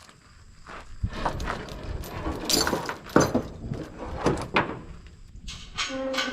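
Irregular metal clanks, knocks and rattles of tie-down gear being undone on a trailer loaded with tractors, with a brief creak near the end.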